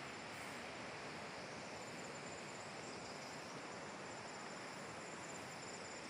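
Faint outdoor ambience: a steady hiss with a thin, high insect trill pulsing rapidly.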